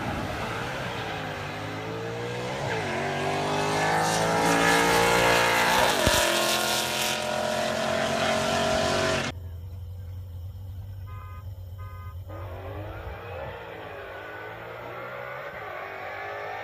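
Two V8 cars accelerating flat out in a roll race, their engine notes climbing in pitch and dropping at the gear changes, growing loud as they come on and pass. The sound cuts off suddenly about nine seconds in, and after a few seconds more distant engines are heard accelerating again with rising pitch.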